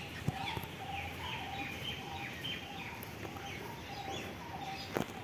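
Birds chirping, many short, repeated calls overlapping one another, with a couple of light clicks.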